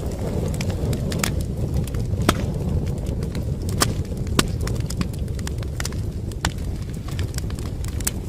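Wood fire crackling: irregular sharp pops and snaps, a few louder than the rest, over a steady low rumble of the flames.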